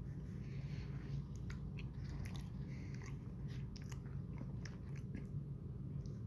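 A person chewing a mouthful of saucy rice and chicken, with scattered small clicks, over a steady low hum.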